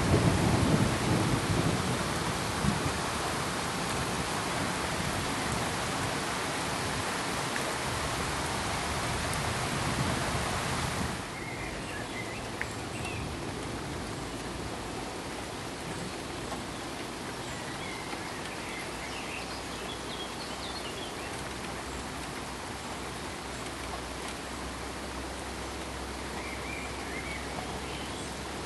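Steady rain hiss with a rumble of thunder dying away at the start. About a third of the way in it cuts abruptly to a quieter, even hiss with faint scattered high chirps.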